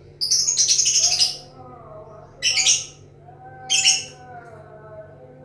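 Lovebird singing its 'ngekek': shrill, rapid chattering. One burst lasts about a second, followed by two shorter bursts.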